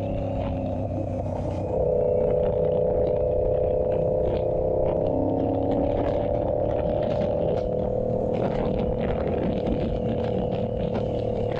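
Yamaha YZF-R7's 689 cc parallel-twin engine through an SC-Project exhaust, riding under steady throttle. About two seconds in it gets louder and the pitch lifts slightly as the throttle opens, then holds steady at cruising revs.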